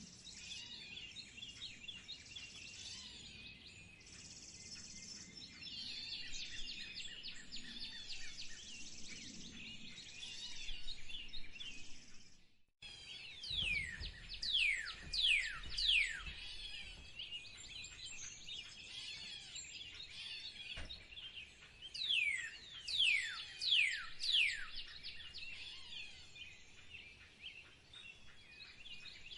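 Wild birds calling and singing in a dense chorus of chirps. After a short break, loud whistled notes slide down in pitch, in two runs of about four each.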